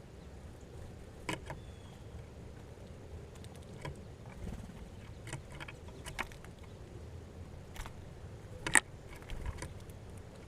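Scattered light clicks and taps over a faint low rumble, with one sharper click near the end.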